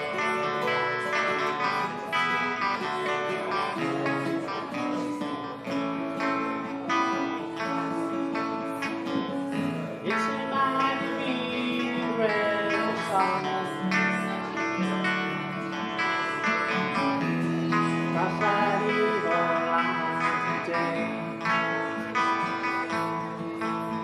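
Acoustic guitar playing an instrumental break between verses of a folk song, strummed and picked.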